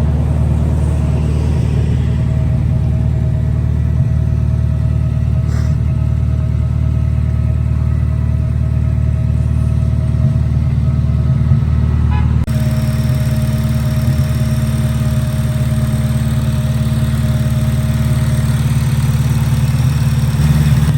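Honda K24 2.4-litre inline-four in an Acura RSX idling steadily while cold, just after a cold start. The tone shifts slightly about twelve seconds in.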